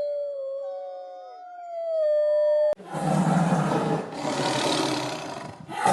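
Wolf howling in long, drawn-out howls, two of them overlapping and sliding slowly down in pitch. The howling cuts off abruptly a little under halfway through. A lion then roars twice, long rough roars of about a second and a half each.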